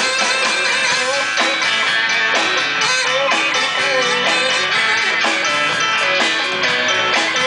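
Bar band playing a song, led by guitars, with a wavering melody line over steady strumming.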